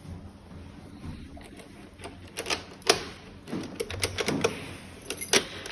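Irregular sharp metallic clicks and taps of keys and lock parts being handled at a locksmith's work, with a cluster of quick clicks in the second half over a low hum.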